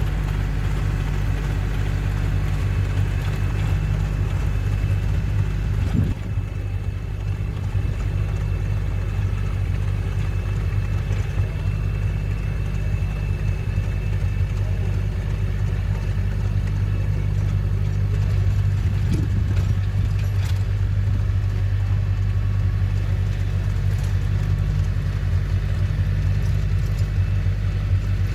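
Compact tractor engine running steadily under load, rototilling leaves into the soil, with a brief dip about six seconds in.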